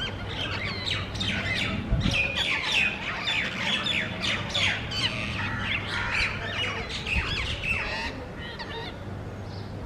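Rose-ringed parakeets squawking: many quick, high-pitched calls overlapping one another, thinning out about eight seconds in.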